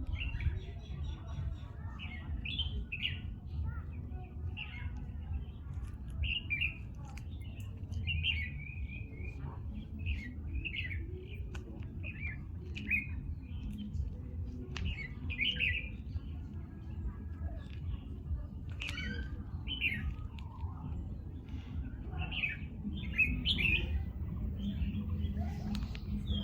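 Birds chirping, short repeated calls about every second, over a steady low rumble.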